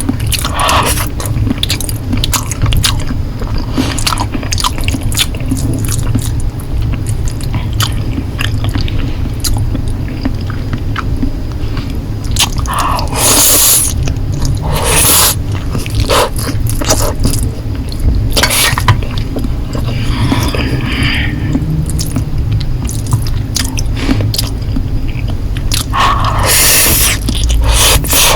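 Close-miked eating of Korean noodles: steady chewing and biting with many small wet clicks, broken by several longer slurps, the longest near the end.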